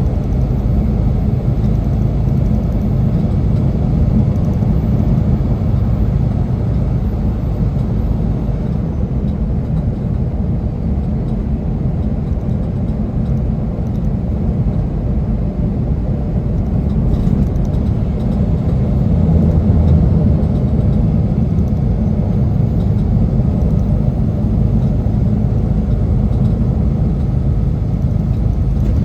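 Semi truck driving uphill: a steady low rumble of engine and road noise that swells slightly about twenty seconds in.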